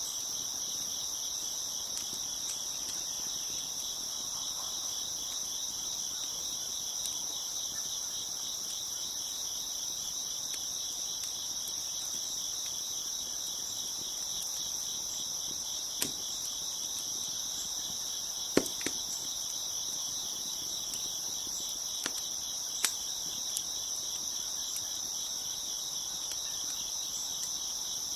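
A dense chorus of crickets chirping steadily, with a few sharp pops from a crackling wood fire, the loudest a little past the middle.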